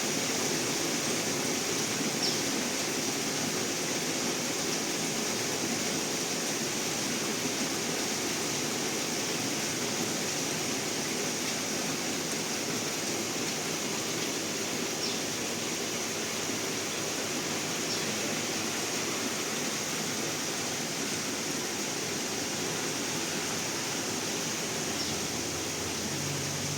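Steady rain falling, an even hiss, with a few faint short high peeps now and then.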